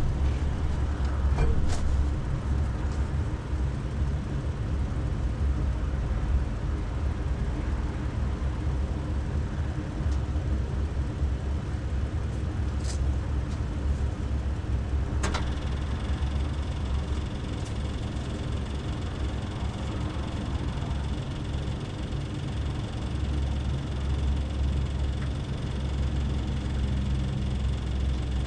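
Detroit Diesel 6-71 two-stroke diesel engine running steadily at a low, even speed. Two sharp clicks come about halfway through, and a faint high whine joins soon after.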